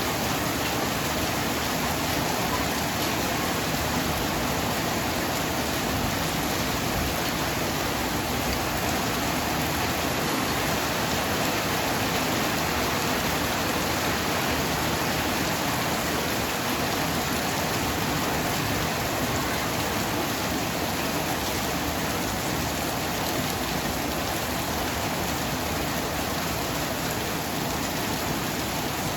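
Heavy rain falling steadily, a dense even hiss of drops on surfaces with no thunder claps.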